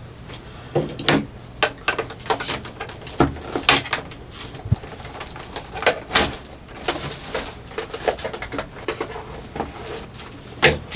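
Cardboard toy box and plastic packaging being opened and handled: irregular crinkling, tearing and sharp clicks.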